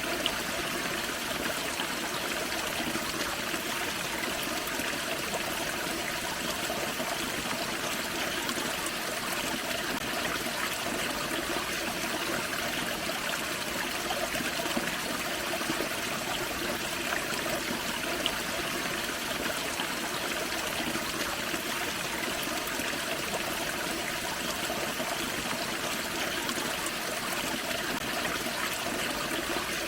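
Small forest creek splashing over a small waterfall: a steady, even rush of running water.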